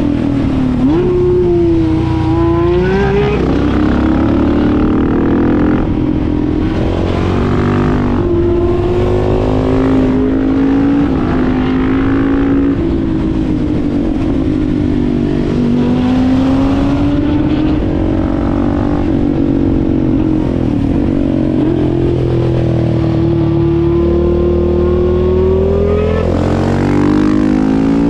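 Engines of a Husqvarna 701 single-cylinder motorcycle and Porsche sports cars being driven hard. The revs climb and drop sharply again and again as the vehicles accelerate, shift and slow for corners, over a steady rumble and road and wind noise.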